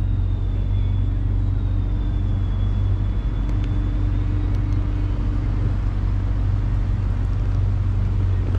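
Motorboat engine running steadily while the boat is under way, a continuous low drone over a steady rush of noise.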